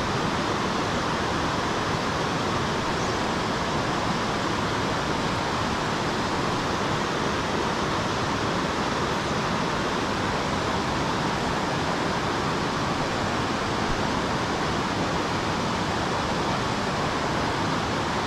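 Steady rushing of falling water from a creek waterfall.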